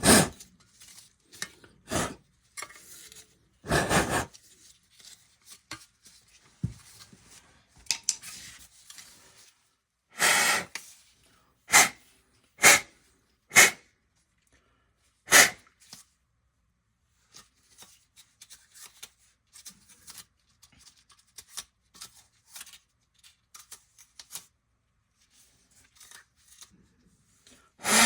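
Hand work on gas furnace burners and metal parts: intermittent scraping and rubbing with sharp knocks and clanks. The sounds cluster in the first half, with longer scrapes about 4 and 10 seconds in and several sharp knocks between 12 and 15 seconds, then only faint handling noises.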